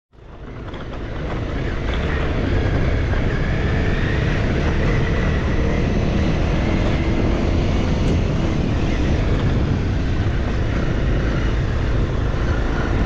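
Dirt bike engine running steadily while riding, mixed with wind and road noise; it fades in over the first couple of seconds.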